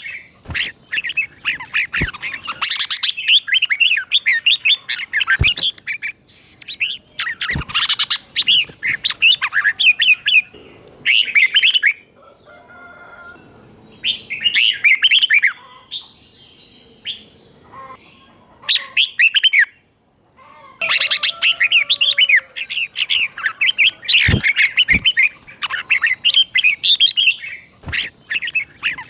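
Red-whiskered bulbul singing: bursts of quick, rapid warbling phrases, broken by a few short pauses near the middle. A few brief sharp clicks are heard between phrases.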